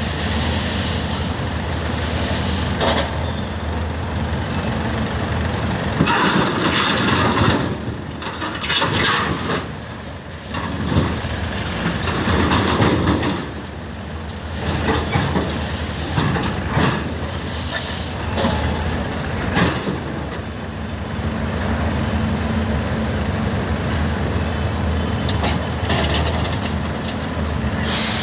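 Indian Railways WAG-9 electric locomotive running, with a steady low hum. Louder irregular rushing noise passes through the middle.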